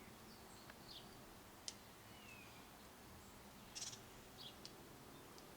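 Faint, high-pitched chirps from small nesting birds: a handful of short calls scattered through, with a couple of sharp clicks and a brief rustle-like burst.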